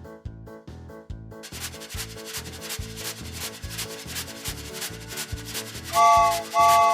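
Cartoon soundtrack: a steady, scratchy rhythmic chugging, about two beats a second, with two short toots near the end.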